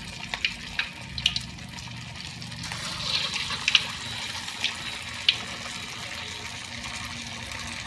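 Ground-meat patties sizzling steadily in a wok of hot oil, with a metal spoon clicking against the wok several times.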